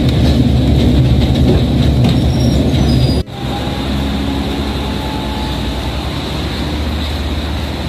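Botchan Ressha, a small diesel-powered replica steam train, running on its rails with a steady rumble and a high wheel squeal. About three seconds in, the sound cuts off abruptly and gives way to the same train heard from the platform as it pulls away, a little quieter.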